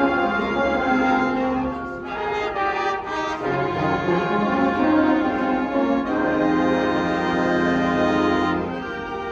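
High school winds ensemble playing, brass to the fore, in sustained chords; the music drops in loudness shortly before the end.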